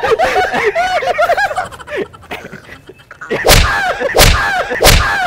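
Three sharp slaps landing about two-thirds of a second apart in a scuffle, with men's raised voices before and between them.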